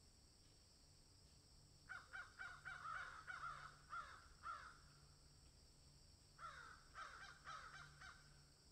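Bird calls in two runs of quick, short, falling calls, about three a second, with a pause of under two seconds between the runs, over a faint steady hiss.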